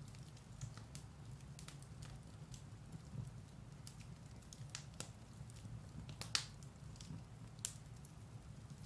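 Firewood burning in a fireplace: a soft, steady low rumble of the fire with irregular, scattered crackles and pops, a few sharper ones around the middle and near the end.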